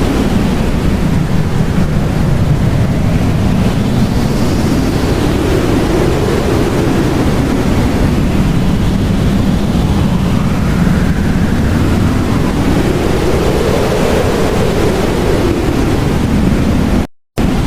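Blizzard wind blowing hard: a loud, steady rushing with slow gusts that rise and fall in pitch like a howl. The sound cuts out completely for a moment near the end.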